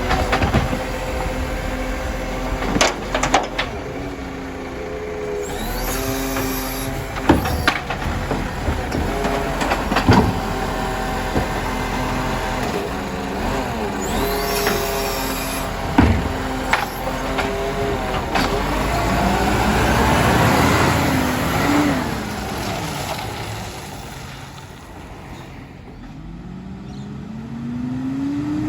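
Iveco Stralis garbage truck at work: the diesel engine runs steadily while two spells of hydraulic whining with hissing come about six and fifteen seconds in, among sharp clanks. About twenty seconds in the engine revs up and fades as the truck pulls away, and a rising engine note returns near the end.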